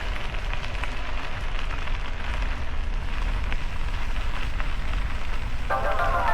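Bike tyres rolling over a gravel trail: a steady crackle of small clicks over a low rumble of wind on the microphone. Music with a falling glide starts near the end.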